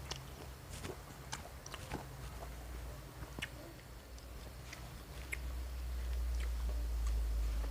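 Close-up chewing of a fried vegetable risole, with scattered small mouth clicks and smacks. A low steady rumble rises in the background over the last few seconds.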